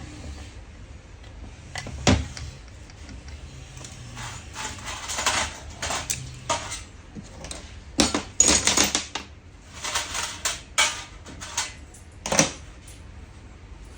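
Metal parts and tools being handled on a workbench during diesel fuel pump repair: irregular clicks, clinks and short scrapes, with the busiest stretch from about eight to twelve seconds in, over a low background hum.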